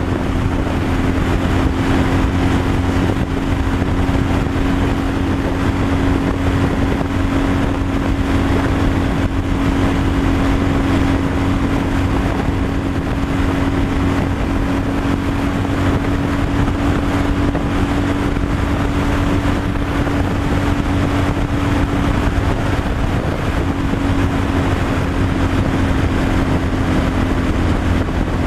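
A truck being driven at a steady cruise: the engine's steady drone with one held tone, over low rumble, road noise and wind.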